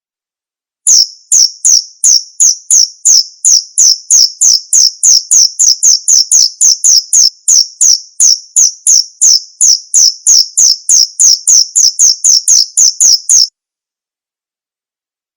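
Male cricket calling: a loud, even series of short, high chirps, about three or four a second, that starts about a second in and cuts off suddenly near the end.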